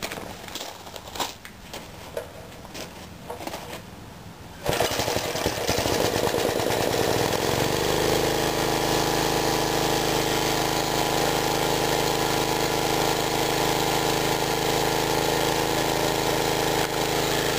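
A few clicks and knocks of handling, then about five seconds in the mid-1950s Clinton 3 hp single-cylinder engine fires from a cold start on a single pull. It picks up speed over a couple of seconds and settles into a steady run, turning a belt-driven generator.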